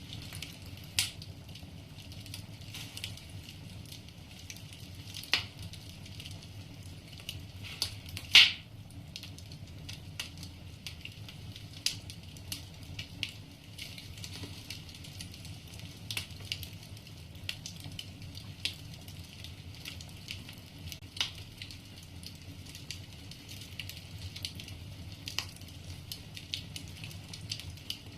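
Wood fire crackling in a fireplace: irregular sharp pops and snaps from the burning logs, a few seconds apart, with the loudest pop about eight seconds in, over a steady low background noise.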